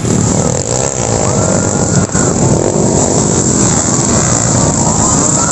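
Underbone motorcycle engines running and revving, their pitch rising and falling.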